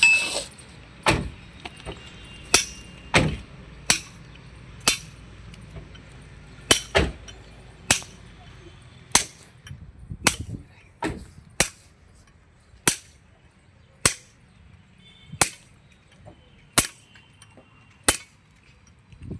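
Hammer striking metal in sharp single blows, roughly one a second at an uneven pace, some with a short metallic ring.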